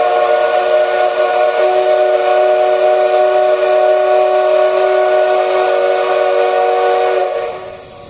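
Steam whistle of the SL Paleo Express steam locomotive, one long blast of several tones sounding together over hissing steam, held steady and then fading away near the end.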